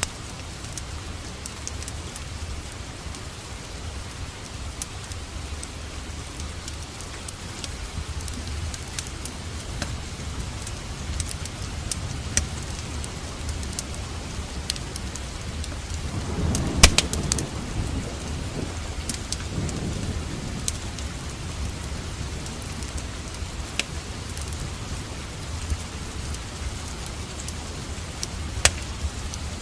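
Steady rain mixed with a wood fire crackling, with scattered sharp pops. A little past halfway a low rumble swells for a few seconds, with the loudest pop inside it.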